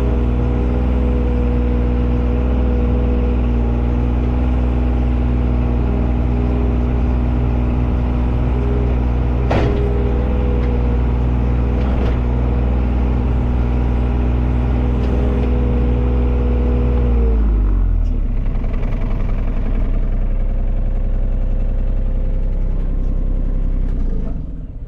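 Engine of a digging machine running steadily at high revs, with one knock about ten seconds in; about three quarters of the way through it throttles down to a lower idle, then shuts off near the end.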